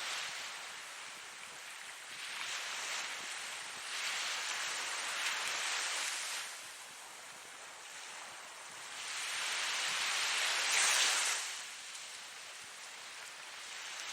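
Ocean waves breaking and washing in, in repeated surges a few seconds apart; the loudest surge comes about eleven seconds in.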